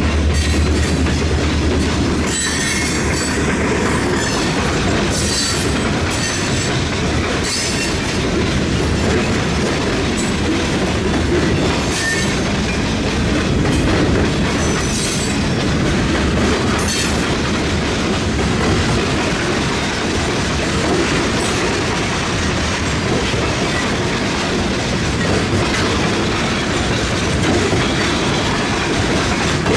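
Freight cars rolling past over a railroad diamond crossing: a steady clickety-clack of steel wheels on the rails, with short high-pitched wheel squeals here and there. A low drone stops about two seconds in.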